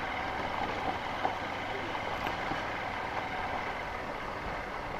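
Honda Unicorn motorcycle running at low speed over a rough, loose-gravel road: a steady engine and road noise with a few small ticks from the gravel.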